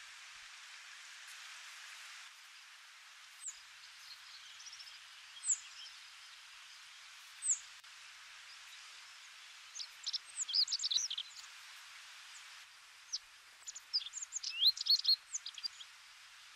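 Small birds chirping over a steady outdoor hiss: a single high chirp about five seconds in and another about seven seconds in, then two quick runs of twittering in the second half.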